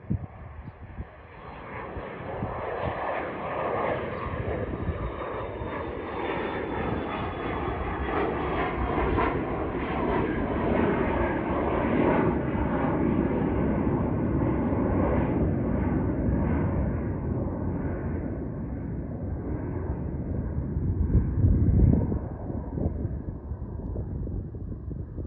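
Embraer Legacy 500 business jet taking off, its two Honeywell HTF7500E turbofans at takeoff power. The jet noise swells over the first few seconds, with a faint high whine sliding slightly down. It is loudest about 21 seconds in and starts to fade near the end.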